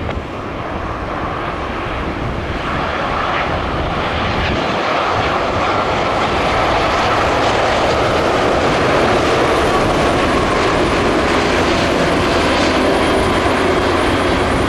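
Boeing 787-10 airliner on final approach, its jet engines growing steadily louder as it nears, with a whine that slides slowly down in pitch.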